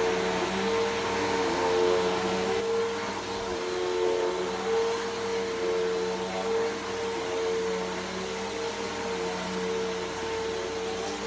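Bissell PowerForce Helix Turbo upright vacuum cleaner running over a rug: a steady motor hum and a high whine of rushing air, swelling and easing slightly as the vacuum is pushed back and forth.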